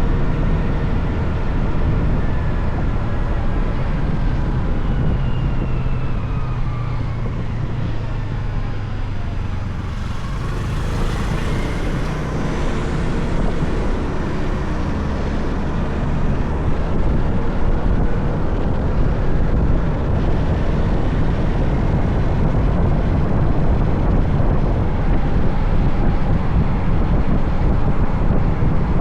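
Motorcycle engine running on the move, with wind rushing over the microphone. The engine note falls as the bike slows over the first ten seconds or so, then climbs again as it picks up speed.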